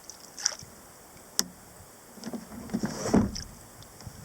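Kayak paddle strokes splashing in the water, loudest about three seconds in, with a single sharp click about a second and a half in.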